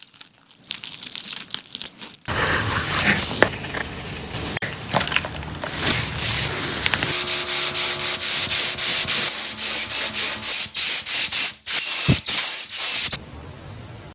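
Sanding or abrasive rubbing on car bodywork: a steady rasping scrub in several short stretches that start and stop abruptly.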